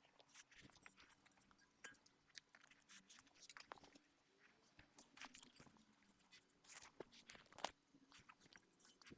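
Faint, scattered scratchy crackles and ticks of exhaust heat wrap being wound and tucked around an exhaust manifold by hand.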